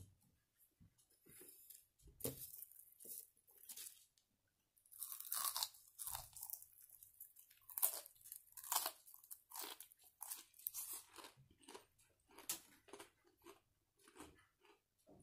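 A person biting into and chewing crispy fried squid (ika karaage): irregular crunches and mouth sounds, starting about two seconds in and thickest through the middle.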